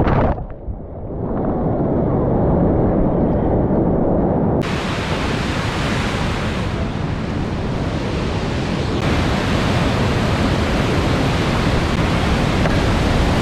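Rushing river water mixed with wind buffeting the microphone. A low rumble at first turns suddenly into a much brighter, fuller hiss about four and a half seconds in.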